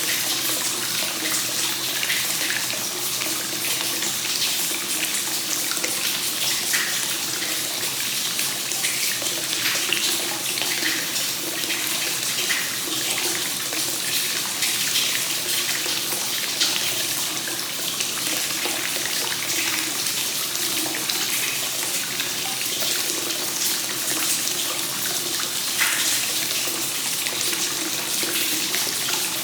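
Hot spring water pouring steadily from the source into a bath, a continuous rushing splash on the water's surface with small spatters now and then.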